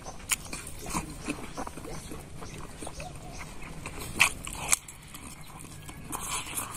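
Close-up chewing and lip-smacking of a man eating rice and pork curry with his hands, a string of irregular wet smacks and clicks, two of them sharper about four seconds in.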